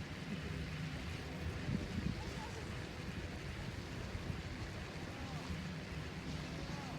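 Steady ambient background noise, heaviest in the low end, with faint voices in the distance.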